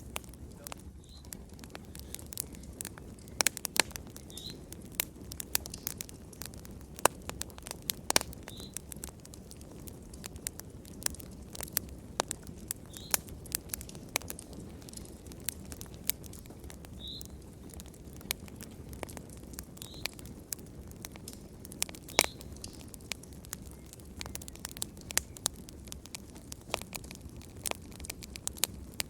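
Wood fire crackling, with frequent irregular sharp pops of varying loudness over a low, steady rumble.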